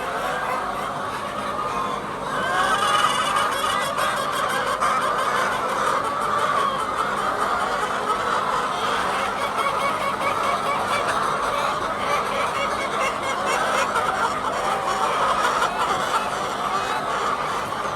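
A large flock of laying hens clucking and calling together, a dense continuous chorus of overlapping short calls, a little louder after about two seconds.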